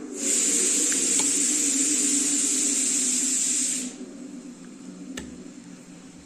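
A steady, loud hiss lasting nearly four seconds that cuts off suddenly, then a single sharp click.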